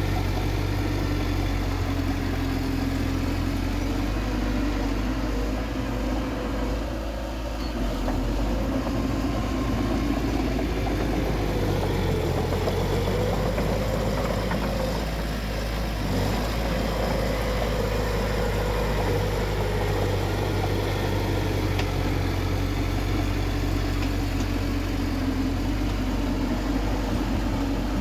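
Bulldozer's diesel engine running steadily, its pitch drifting slightly up and down as the load changes.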